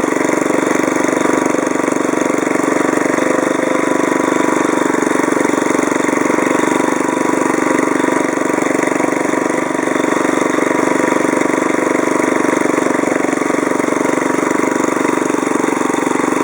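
Small Briggs & Stratton engine of a Deckson lawnmower running at a steady speed.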